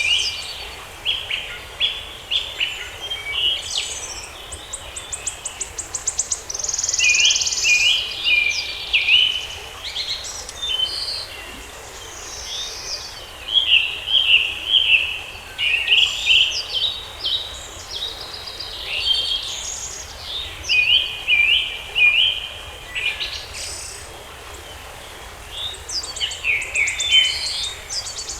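Several songbirds chirping and singing in a forest, with overlapping short chirps and a few rapid high trills, over a faint steady background hiss.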